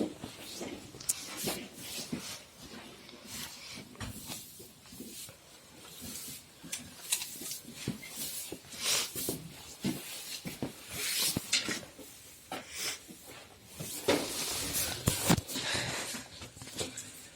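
Caucasian shepherd dog moving about, with irregular scuffling, rustling and crackling and a few louder bursts of noise around the middle and near the end.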